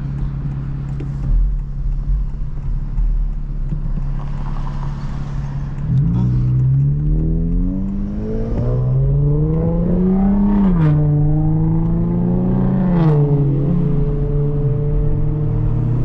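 2025 Honda Civic Type R's 2.0-litre turbocharged four-cylinder engine, heard from inside the cabin: a steady drone for several seconds, then revs climbing under acceleration. The revs drop sharply twice, at two upshifts, and the engine then settles to a steady cruise.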